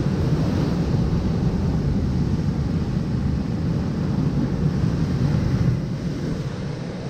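Steady low rumble of wind buffeting the microphone, mixed with surf washing against the rocky shore.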